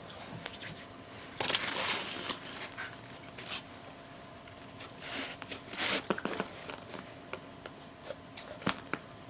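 A person chewing a mouthful of brownie close to the microphone, with scattered short clicks and soft rustles of handling. The strongest stretches come about a second and a half in and again around six seconds in.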